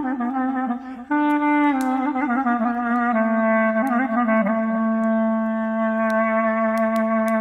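Solo clarinet playing a slow melody, with a brief break about a second in and a long held low note from about three seconds on. Faint sharp crackles of a campfire pop here and there under it.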